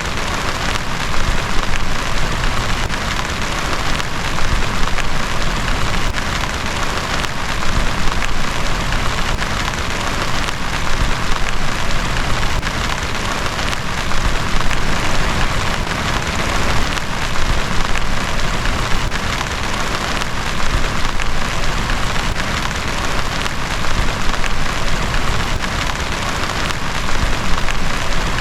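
Heavy rain falling steadily, a constant wash of noise with many separate drop hits.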